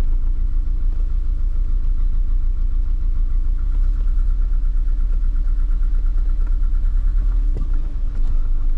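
1989 BMW M3 E30's four-cylinder engine running at low revs with an uneven, pulsing beat, missing a little: a misfire. A single short knock near the end.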